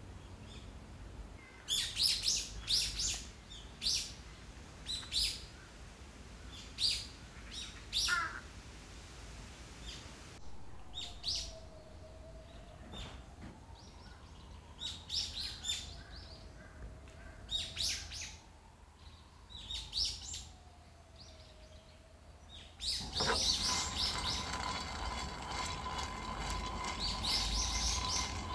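Small birds chirping, a few quick high calls at a time with pauses between. In the middle a faint tone slowly rises and falls, and about 23 seconds in the background turns suddenly louder and fuller.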